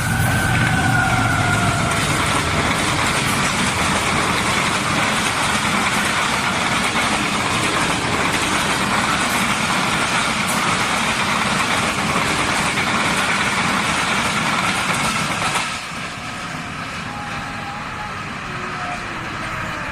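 Shalimar Express passenger train rolling past close by with a loud, steady rumble of wheels and rails. The noise drops off sharply about sixteen seconds in.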